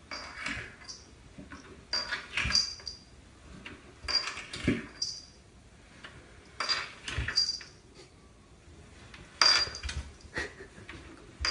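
Cat sliding down wooden stairs on its side, its body bumping and scraping onto one tread after another in short bursts every two seconds or so.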